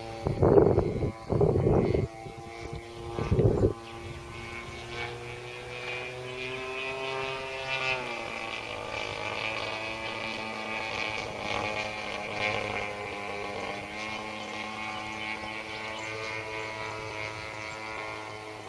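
Radio-controlled model airplane's engine and propeller running in flight. Its pitch wavers and drops clearly about eight seconds in as the plane passes and turns. A few loud bursts of noise come in the first four seconds.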